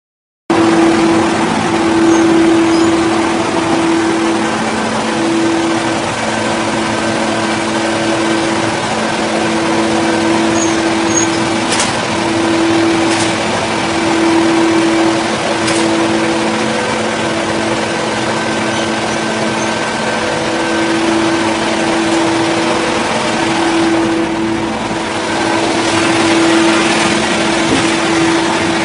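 A power saw's engine running steadily at high speed, a constant high note pulsing slightly about once a second, with a few sharp ticks in the middle.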